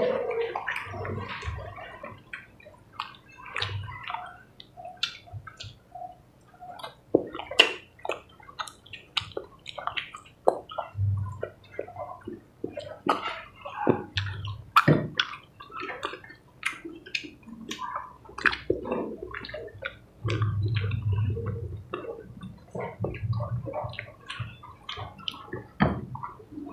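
Close-up eating sounds of people eating chicken and rice by hand: wet chewing, lip-smacking and mouth clicks, irregular and dense, with a few low hums between bites.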